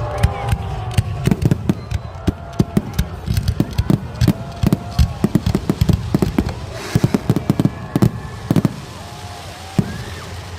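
Fireworks display going off: a dense run of sharp bangs and crackles, several a second, thinning out near the end, with people's voices underneath.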